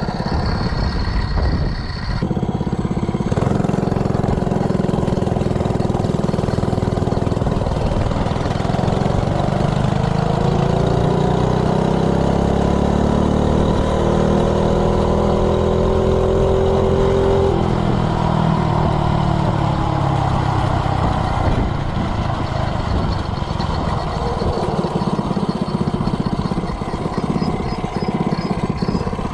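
The Coleman CC100X minibike's 3 hp single-cylinder engine pulls hard under throttle, its note climbing steadily as the bike accelerates on a 0 to 30 mph run. About two-thirds of the way through, the rising note breaks off and the engine runs lower, with more rushing noise mixed in.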